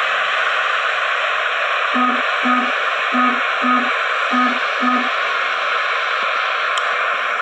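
Steady loud noise of an airliner rolling out after landing, as heard on the flight deck. A short two-note beep sounds three times, about a second apart.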